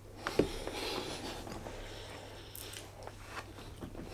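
A man chewing a mouthful of food close to the microphone: a sharp click about half a second in, then irregular crackly mouth noises and small clicks.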